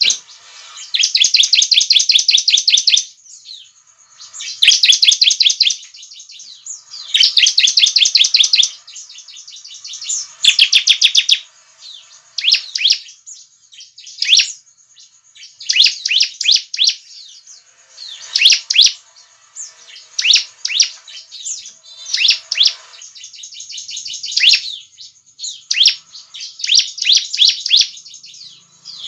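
Bar-winged prinia (ciblek) singing loudly: bursts of rapid, repeated high trilled notes, each a second or two long, with short gaps between them. After about twelve seconds the song breaks into shorter, quicker phrases.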